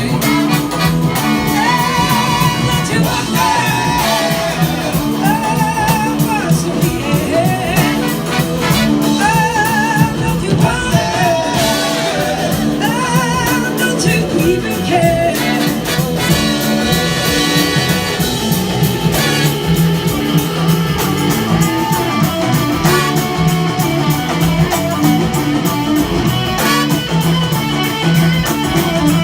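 Live blues-rock band playing an instrumental passage: a lead line of bending, wavering notes over a steady band backing.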